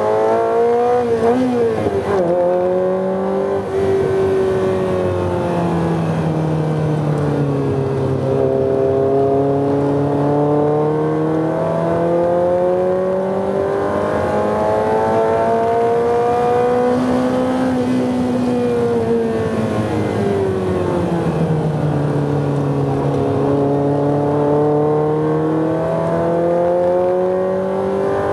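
Ferrari 348's 3.4-litre V8 heard from inside the cabin under hard track driving. Its pitch wavers quickly about one to two seconds in, then climbs and falls slowly as the car accelerates along straights and slows for corners.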